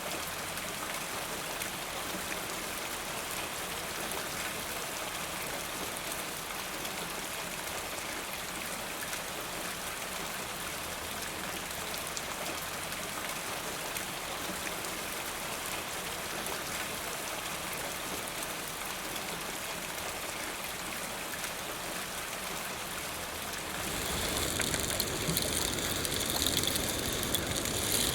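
Steady rain falling, an even hiss of drops. About 24 seconds in, the sound turns louder and coarser, with more rumble underneath.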